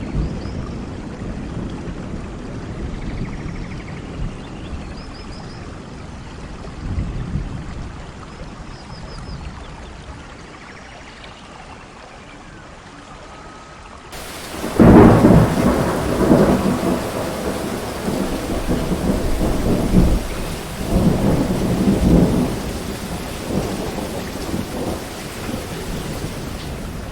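Thunderstorm with rain falling steadily and distant thunder rumbling low. About halfway through, a loud thunderclap breaks and rolls on in waves for several seconds before fading back toward the rain.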